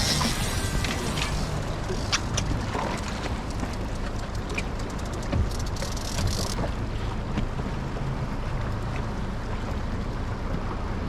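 Suzuki DF60A four-stroke outboard running steadily, a low even hum under wind and water noise, with a few faint clicks in the first half.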